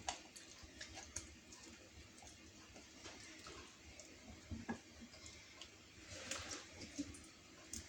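Faint scattered taps, clicks and rustling as vegetable pieces are placed into a cooking tray, with a short louder rustle about six and a half seconds in.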